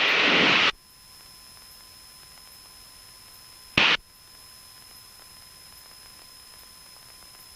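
Aviation radio receiver between transmissions: a loud burst of static hiss as a transmission ends, then a low steady hiss with a faint thin whine, broken by a short crackle of static about four seconds in.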